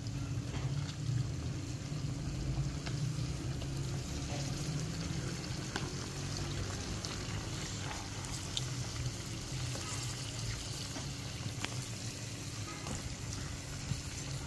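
Raw chicken pieces sizzling and crackling in hot oil with onions in a karahi as they are stirred with a wooden spatula, over a steady low hum.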